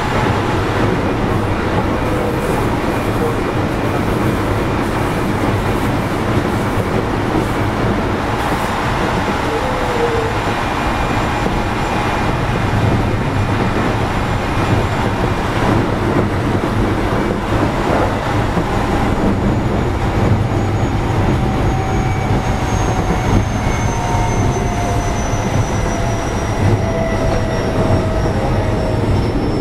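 Running noise of a Keio 7000 series electric train heard from inside the passenger car: a steady rumble of wheels on track, with faint whining tones that glide slowly down in pitch through the second half.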